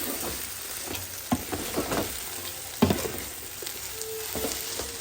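Noodles being stirred in a hot oiled pan with capsicum, onion and fried chicken pieces: a steady sizzle, with a few short scrapes and knocks from the stirring.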